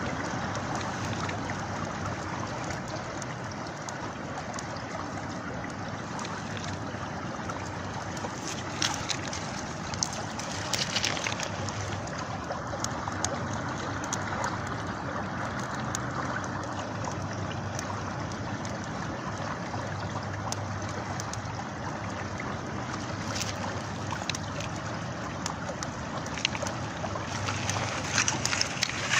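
River water flowing steadily, with a campfire crackling over it in scattered sharp pops that come thicker about a third of the way in and again near the end.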